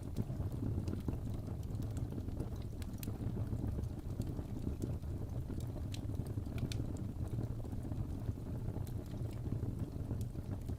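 Wood fire burning in a fireplace: a steady low rumble of flames with scattered sharp crackles and pops from the burning logs at irregular moments.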